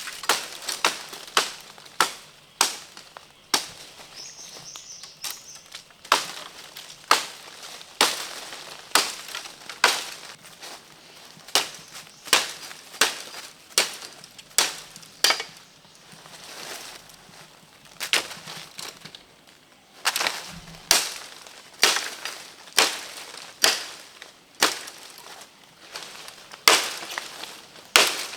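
Repeated sharp cracks and snaps, about one or two a second, with a short lull a little past the middle.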